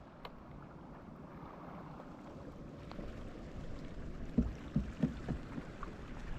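Quiet on-the-water ambience from a fishing kayak: a faint steady hiss of wind and water, with a few short soft knocks in the second half.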